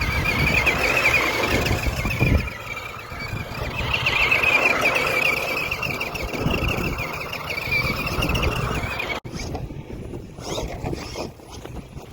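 Small electric motor and gears of a radio-controlled car whining, a wavering high-pitched tone over a rough rumble, cutting off suddenly about nine seconds in. Quieter scattered clicks and rattles follow.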